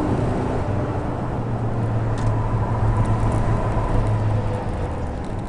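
Car engine running steadily with road or track noise.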